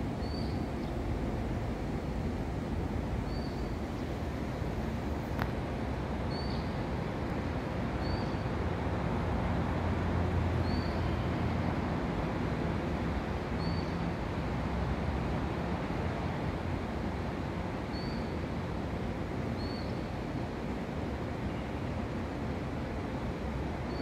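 Short, high chirps of a small bird, one every two or three seconds, over a steady low rumble of the surrounding city.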